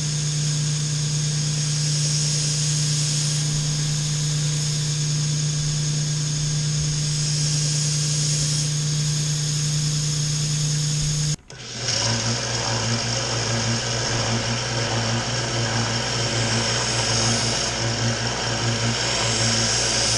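Belt sander running steadily while a knife edge is sharpened on it. About eleven seconds in the sound breaks off abruptly and comes back at a lower, slightly throbbing hum.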